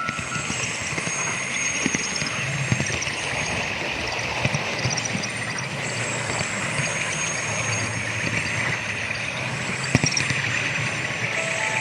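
Model train running along a home layout track: a steady rolling rush with a low hum and occasional sharp clicks from the rails, mixed with train running sounds from an onboard sound car.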